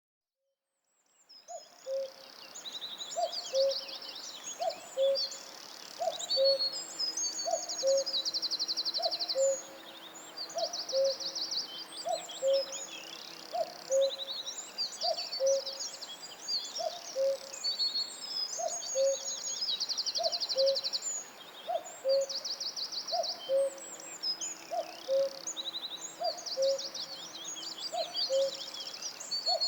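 Forest birdsong fading in: several songbirds sing high trills and chirps over a low hooting call repeated about once a second.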